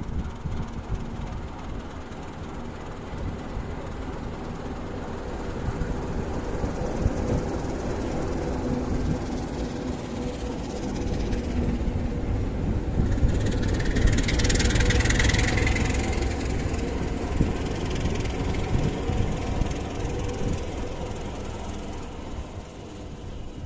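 Diesel shunting locomotive running under load with freight wagons rolling on the rails: a steady low rumble and engine drone. A high hiss rises about thirteen seconds in and lasts a couple of seconds.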